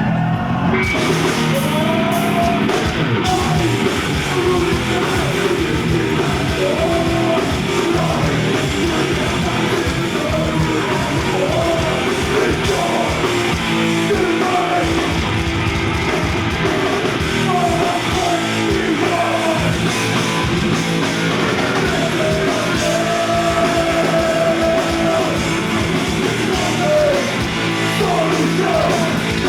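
Heavy metal band playing live at full volume: distorted electric guitars, bass and drums, with vocals over them.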